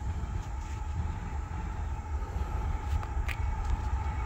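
Low rumble of an approaching Norfolk Southern diesel-hauled coal train, still some way off and slowly growing louder.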